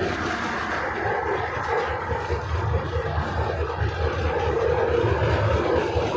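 71-605A tramcar running, heard from inside the car: a steady rumble of wheels on the rails with the hum of the traction motors, growing a little louder about two seconds in.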